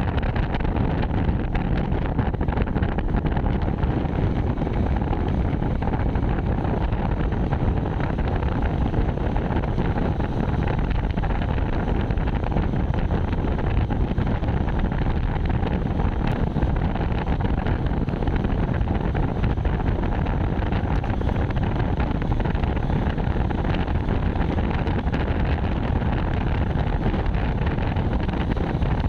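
Steady wind rushing over the microphone of a moving bike, with no pauses or changes.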